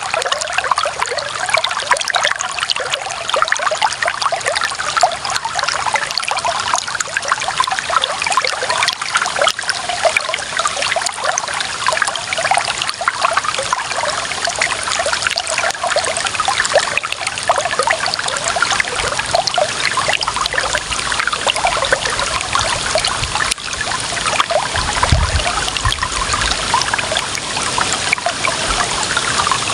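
Clear water running and trickling steadily, a dense patter of small splashes. A brief low rumble sounds about 25 seconds in.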